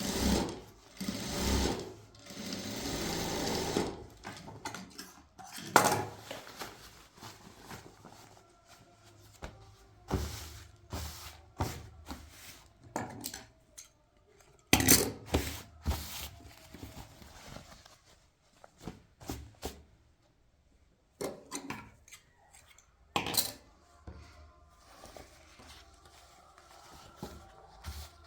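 A sewing machine runs for a couple of seconds near the start, followed by scattered knocks and clicks of objects being handled.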